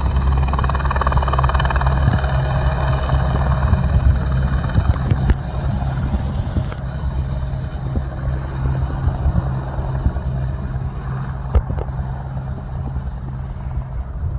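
Airbus H125 single-turbine helicopter departing: the low beat of its main rotor with a steady high turbine whine, slowly fading as it flies away.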